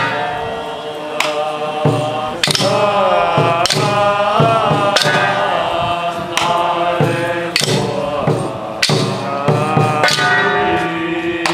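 Ritual chanting, a melodic voice sliding and bending in pitch, with sharp percussion strikes about once a second.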